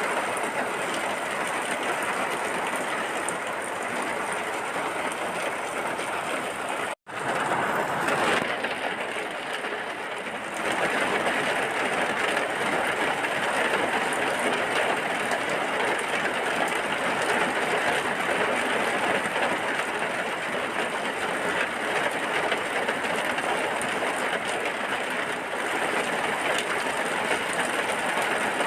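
Steady heavy rain, an even hiss with a brief cut-out about a quarter of the way through.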